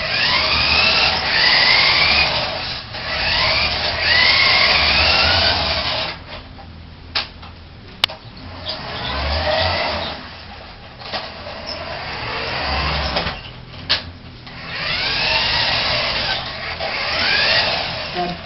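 Remote control truck's motor whining up in pitch in repeated bursts of a few seconds as it accelerates, with short pauses between runs. A few sharp clicks come in the quieter middle stretch.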